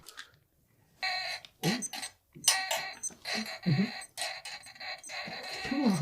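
Telephone ringing in repeated bursts as a call is placed, with a few brief low sliding sounds among the rings.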